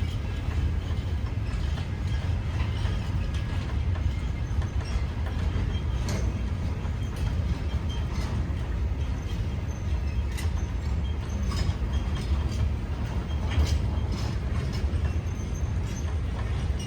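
Freight train rolling through a station: a steady low rumble of the wagons, with scattered sharp clicks of the wheels.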